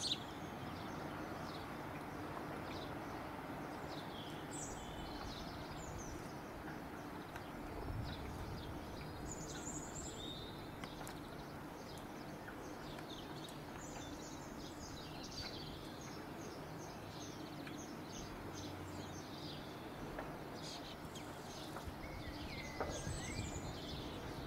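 Small birds chirping and twittering again and again over a steady background hum and outdoor noise.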